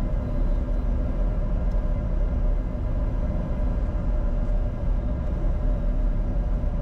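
Steady cockpit noise of a Bombardier Challenger 605 on final approach with gear down and flaps at 45: a constant low rumble of airflow and its twin rear-mounted CF34 turbofans, with a steady hum over it.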